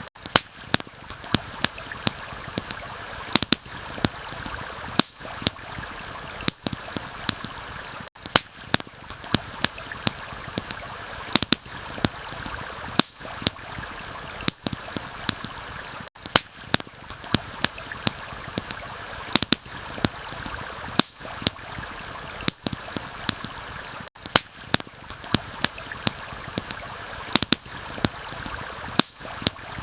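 Campfire crackling, with sharp irregular pops several times a second, over a steady rush of running stream water.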